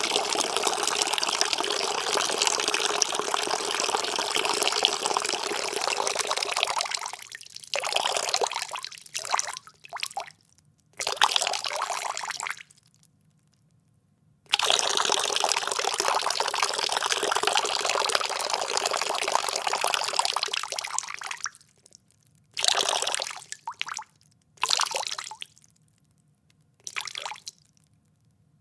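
Urine streaming into toilet bowl water: a steady stream that breaks into short spurts and stops, then after about two seconds a second long stream that again tails off into a few short spurts and trickles.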